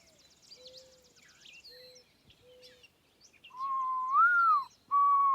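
Whistled bird-talk: a few faint, short, steady whistled notes, then from about three and a half seconds in three loud close whistles, the first rising and falling, a person whistling to a bird. Faint high bird chirping runs underneath.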